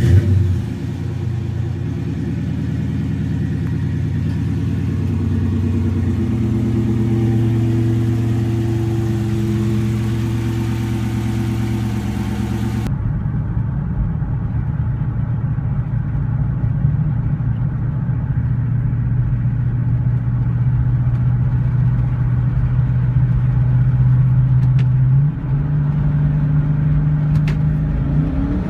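2013 Chrysler 300S's 5.7-litre Hemi V8 with a Flowmaster exhaust firing up with a loud burst, then idling steadily. Right at the end the revs begin to climb.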